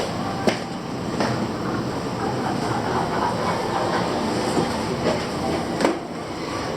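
Steady rumbling city noise, with a few sharp clacks about half a second in, a second in and again near the end.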